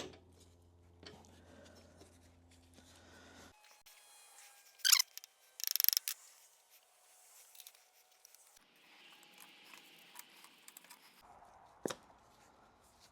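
Sporadic handling noises of U-joint parts being fitted: a few sharp clicks and a short burst of rattling clatter about six seconds in, with quiet stretches between.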